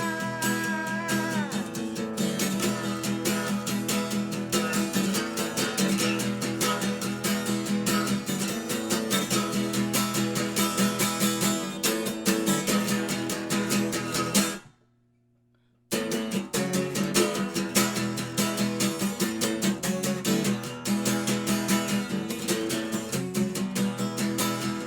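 Guitar music with steady strumming, cutting out completely for about a second roughly fifteen seconds in before carrying on.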